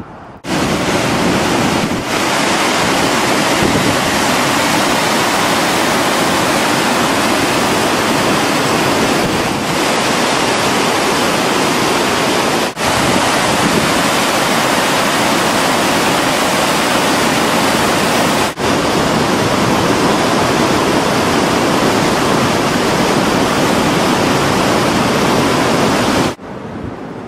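Loud, steady rush of the flooded Passaic River's high water. It is broken by brief dips about 2, 10, 13 and 19 seconds in, and drops away about a second before the end.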